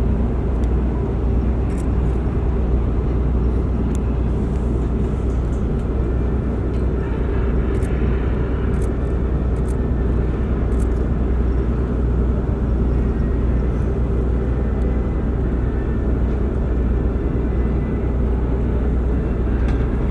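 Steady low rumble of the ferry Daiichi Shodoshima Maru's engines running, with a noisy hiss over it.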